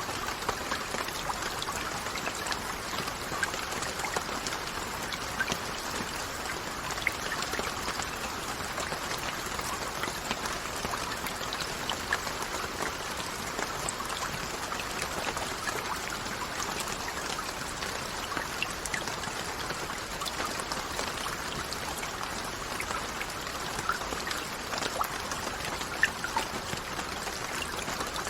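Steady rain falling, a continuous hiss with many scattered individual drop ticks and an occasional louder drip.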